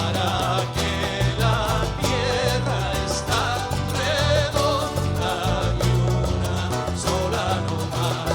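Latin American folk-popular band music with guitars over a steady bass rhythm and a wavering melody line on top.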